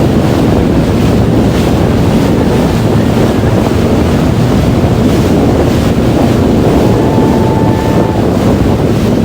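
Loud wind buffeting the microphone on a moving jet ski, over the rush of water and the watercraft's engine.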